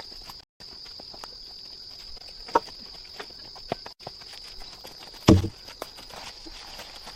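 A steady high-pitched insect drone, like rainforest cicadas or crickets, under scattered light knocks and rustles. There is a louder dull thump about five seconds in.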